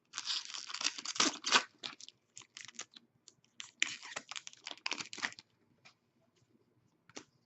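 Hockey trading cards and their pack wrappers being handled: two spells of crinkling and rustling, the first right at the start and the second about four seconds in, with a few light clicks between.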